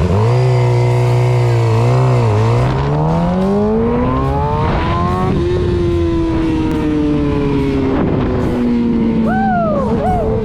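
Motorcycle engine under way: it climbs in revs for a few seconds, drops sharply in pitch at a gear change about five seconds in, then its revs fall slowly. A quick rise-and-fall rev blip comes near the end.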